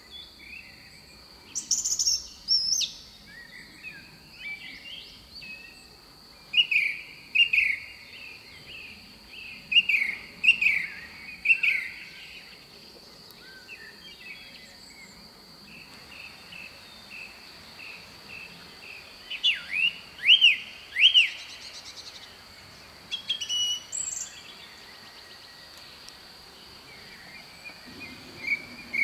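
Several songbirds calling and singing in clusters of quick, sweeping chirps, with quieter gaps between, over a steady high-pitched background tone.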